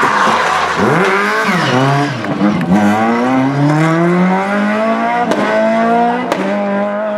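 Classic rally car's engine taking a tight hairpin. The revs dip and flare twice as it slows and turns, then climb in one long rise as it accelerates away, with a few sharp cracks near the end.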